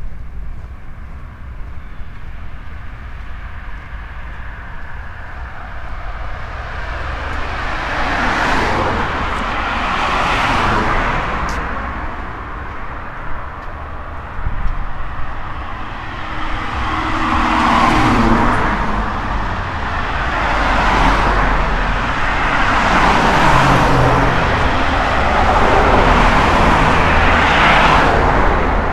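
Road traffic passing close by: about six cars go past one after another, each a swell of tyre and engine noise that builds and fades, over a steady low rumble.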